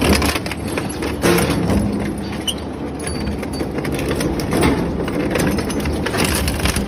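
Industrial shredder crushing and tearing material: a dense, continuous run of cracks, knocks and grinding, with a few heavier hits about a second in.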